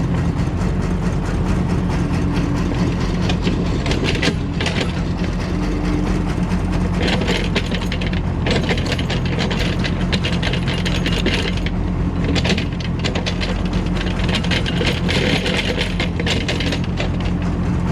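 Diesel engine running steadily, with repeated spells of rattling and scraping from an excavator bucket digging and dumping soil.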